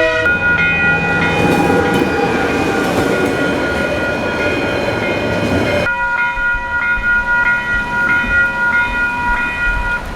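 A train passing over a level crossing, its rushing and rumbling noise cutting off sharply about six seconds in, while the crossing's warning bells keep ringing in a steady, repeating pulse.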